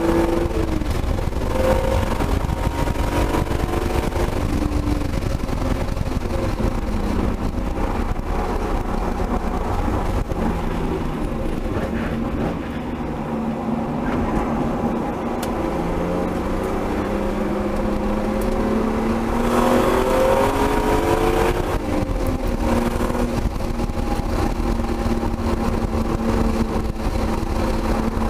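Turbocharged 1999 BMW M3's straight-six engine under hard driving at track speed, heard from inside the cabin, its pitch rising and falling through the gears. Midway it drops off and falls in pitch, then climbs again about twenty seconds in.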